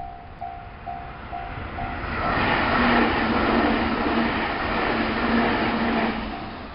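A Meitetsu electric train passes through the station at speed: loud rushing wheel and running noise builds about two seconds in and dies away near the end. A repeating electronic warning beep, about two a second, sounds at the start and returns as the train clears.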